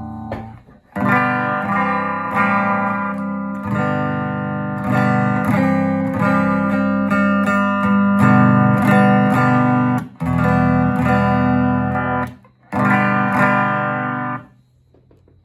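Telecaster electric guitar played through a restored circa-1965 Gibson GA-25RVT Hawk tube amp on its reverb-and-vibrato channel, picked up by a phone's microphone. Chords are played in phrases with brief breaks, and the playing stops about a second before the end.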